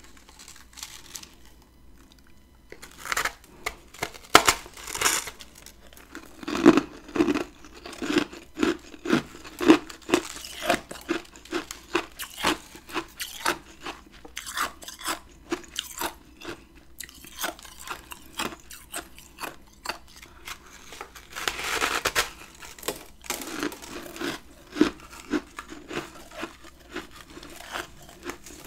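A person biting and chewing chunks of humidifier-grown freezer frost: crisp, crunchy bites followed by steady chewing at about two crunches a second, with one longer, louder crunching bite a little past the middle.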